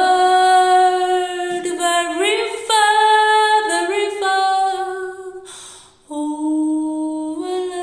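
A woman singing unaccompanied, holding long notes with slides between them, with a short pause about six seconds in.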